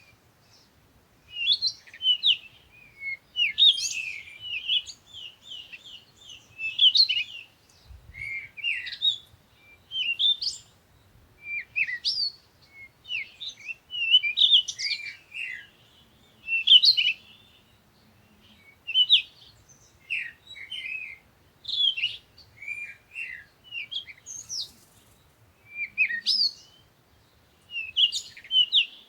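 Small birds chirping: short, quick, up-and-down phrases repeated every second or two.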